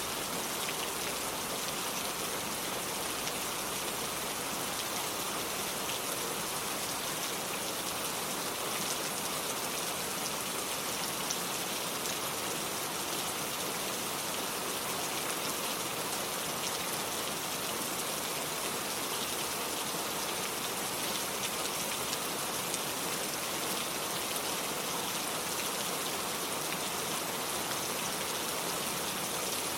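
Steady rain falling, with a dense patter of drops on hard surfaces and an even hiss.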